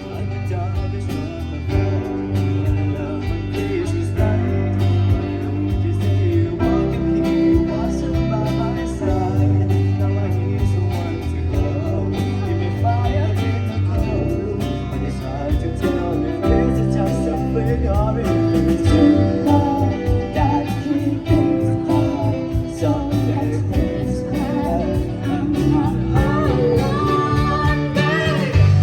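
A live band plays a pop song: sung vocals over guitar and bass, with a steady beat.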